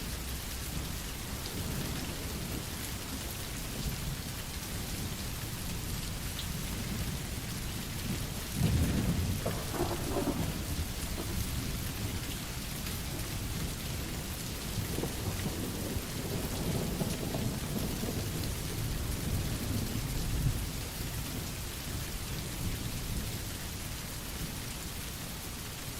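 Steady rain falling, with thunder rolling low about a third of the way in, loudest as it breaks, and again for several seconds in the second half.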